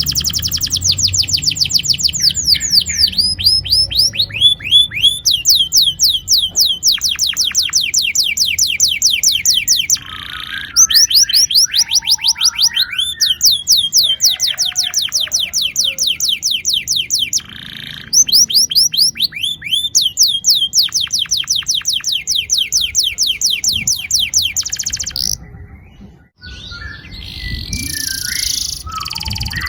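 Domestic canary singing long rolling trills: phrases of several seconds made of rapid, evenly repeated falling notes, broken by short pauses. Near the end the song changes to a less regular phrase.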